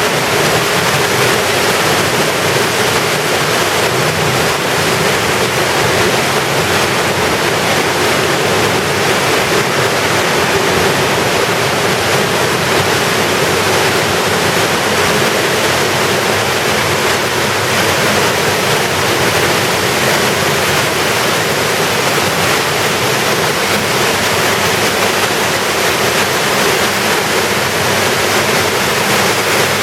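Steady, loud rush of an underground waterfall falling into Smoo Cave's limestone chamber.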